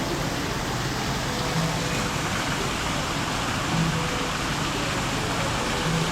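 Steady rushing hiss like running or falling water, with faint low hums coming and going every couple of seconds.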